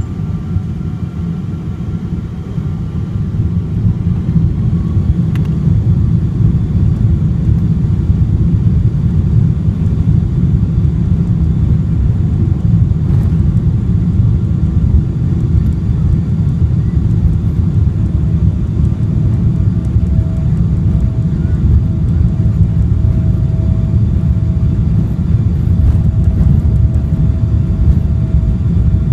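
Boeing 777-200ER jet engines and airflow heard inside the passenger cabin: a loud, steady low rumble that grows louder about three seconds in and then holds, with a faint steady whine joining in the second half.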